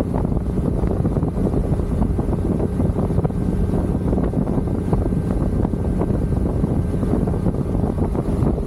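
Motorcycle riding at a steady cruising speed: the engine's steady drone under heavy wind rush on the microphone.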